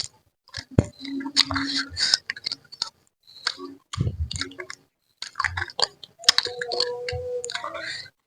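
Close-up chewing, lip-smacking and sucking while eating a spicy mangut-cooked giant sea catfish head, in irregular wet clicks and smacks, with two brief hummed sounds.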